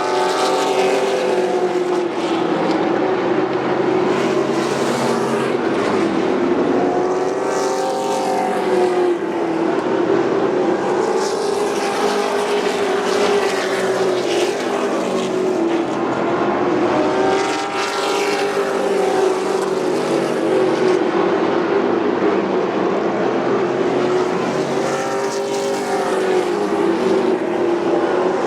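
Race trucks' engines running at speed on a short oval track. The engine pitch rises and falls again and again as the trucks come past and accelerate out of the turns.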